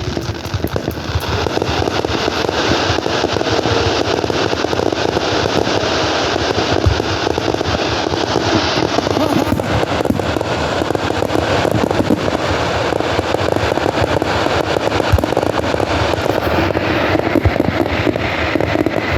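Fireworks going off without pause: dense, rapid crackling, with a few deeper booms standing out.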